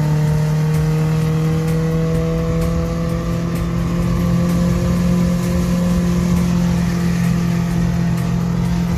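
Toyota 3SZ 1.5-litre DOHC four-cylinder engine in a 1974 VW bay-window van, running under steady throttle. Its pitch creeps up slowly for the first few seconds, then holds.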